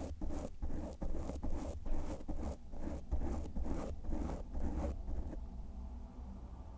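Close-up ASMR mic licking: a tongue stroking across the microphone in quick repeated swipes, about three a second, which stop a little over five seconds in.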